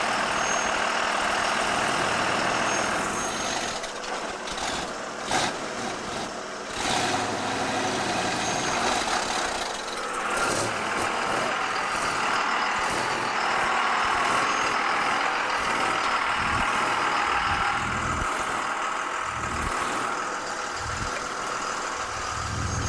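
A truck engine running steadily, with a few sharp knocks about five seconds in.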